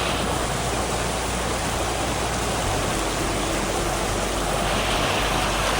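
Rainforest waterfall and creek rushing over rocks: a steady, even roar of falling water.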